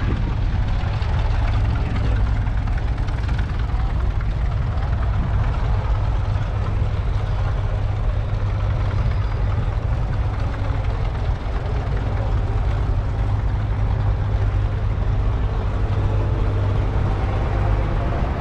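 John Deere 6400 tractor's 4.5-litre four-cylinder diesel engine running steadily at idle.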